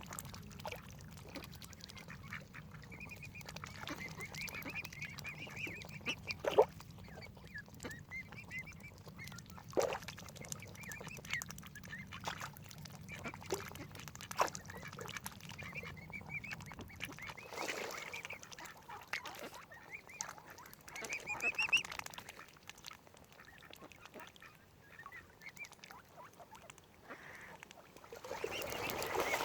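Waterfowl calling: many short, repeated high calls, with a few sharp knocks.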